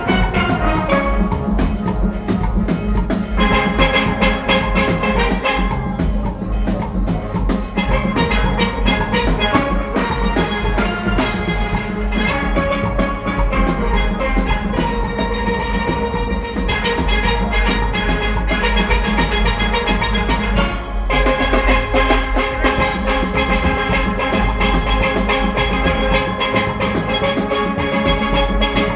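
Steel orchestra playing: many steelpans sounding dense melodic lines over a steady drum-and-percussion rhythm. The low notes drop out for a moment about two-thirds of the way through, then come back in.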